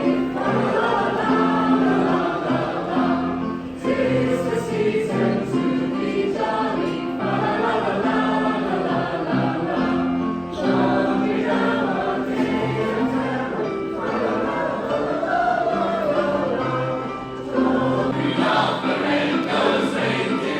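Choir singing a Christmas song over instrumental accompaniment, in phrases with brief pauses about every seven seconds.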